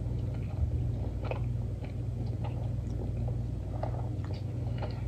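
A person chewing fast food close to the microphone: scattered soft mouth clicks over a steady low hum.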